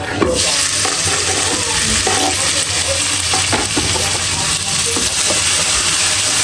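Food sizzling in hot oil in a pan, the sizzle starting suddenly just after the start as it goes in and then holding steady, with a few light stirring knocks.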